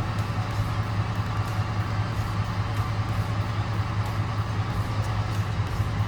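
Truck running on the road, a steady low drone.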